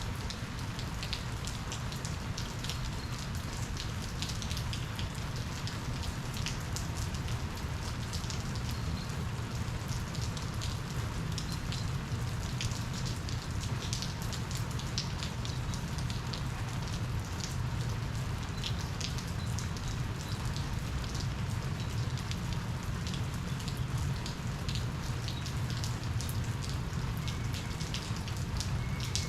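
Steady rain falling, with many separate drops ticking on a surface, over a constant low rumble.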